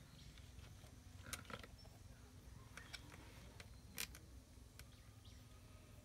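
Near silence: a steady low room hum with a few faint clicks, the sharpest about four seconds in.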